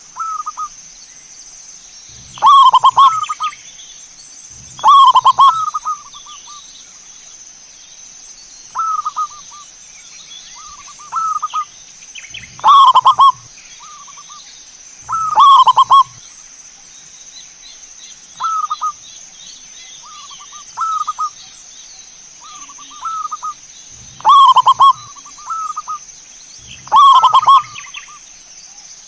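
Zebra doves (perkutut) cooing in short repeated phrases, one every one to three seconds. Loud, full calls come every few seconds, with softer, shorter coos in between, over a steady faint high hiss.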